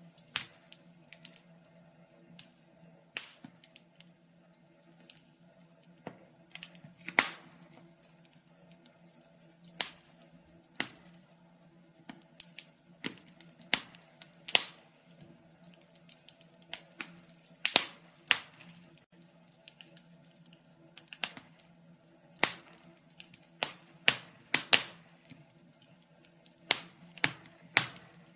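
Wood fire in a fireplace crackling: irregular sharp pops and snaps, one or two a second and some much louder than others, over a faint steady hum.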